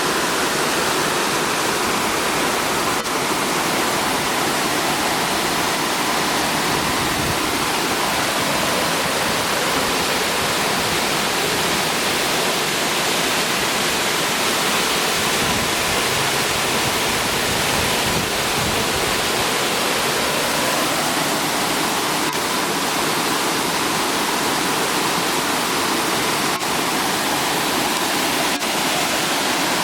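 Brandywine Falls: a loud, steady rush of falling water heard from the brink of the waterfall.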